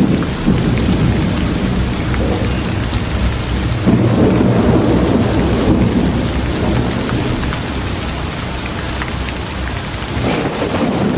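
Steady heavy rain with a deep low rumble underneath that swells about four seconds in and eases off near the end.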